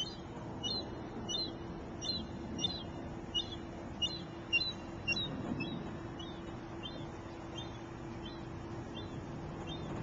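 A small bird chirping over and over: short high double chirps about every two-thirds of a second, growing fainter in the second half, over a steady low hum.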